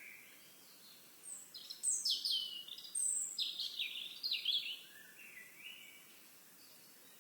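Birdsong: a songbird sings a quick run of high, downward-sliding notes for about four seconds, loudest in the middle, over a faint steady outdoor hiss.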